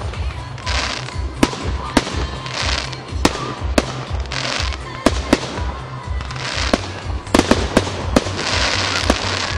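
Aerial firework shells bursting overhead: a string of sharp bangs at irregular intervals, sometimes two or three close together.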